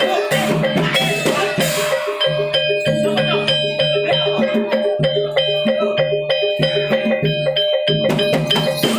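Javanese gamelan music accompanying a barongan dance: drums and struck metal percussion in a fast, even repeating pattern over a steady held high note.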